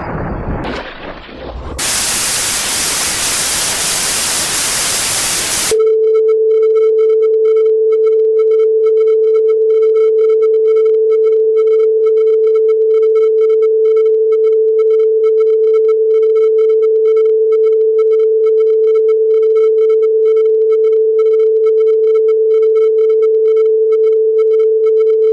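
White-noise static hiss for about four seconds, cut off suddenly by a steady electronic test tone that holds one pitch for the rest of the time.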